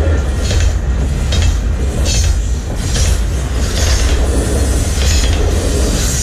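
CPKC double-stack container freight train passing close by: a steady low rumble of steel wheels on the rails with a repeated clatter of the cars rolling over the track, coming about once a second.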